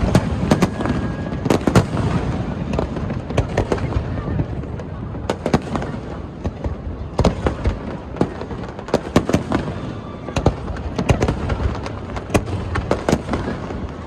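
Aerial fireworks bursting in quick, irregular succession: many sharp bangs and crackles, several a second, over a continuous low rumble of distant booms.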